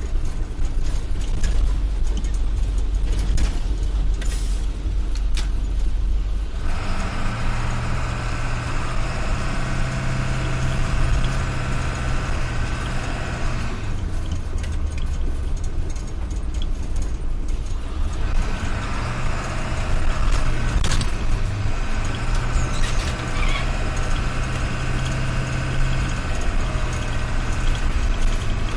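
Motor or engine running steadily, its note shifting several times: a deep hum at first, then a higher steady drone from about seven seconds in, with changes again around 14 and 18 seconds.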